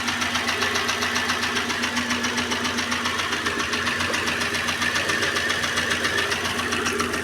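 Renault Clio engine idling with a rapid, even ticking from the top of the engine, a noise the mechanic calls "bem chatinho". He takes it probably for the valves and rocker arms, which turn out to have excess clearance.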